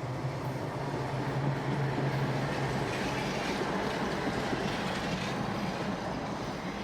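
Heavy vehicle on the move: a steady low engine drone under a broad rumbling noise.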